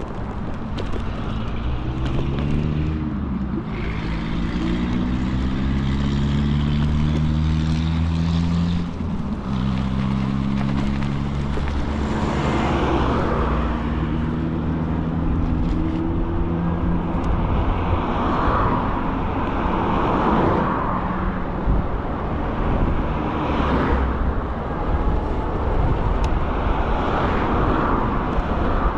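Electric scooter riding along: the motor whines in pitched tones that rise several times as it gathers speed, over a steady rush of wind and tyre noise.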